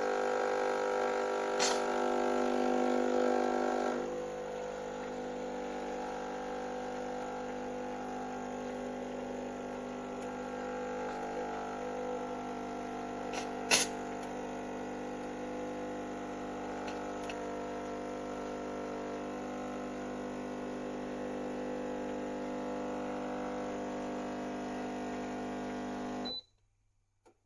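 Espresso machine's 20-bar pump running with a steady buzzing hum, a little louder for the first few seconds, with a couple of sharp clicks, then shutting off abruptly near the end.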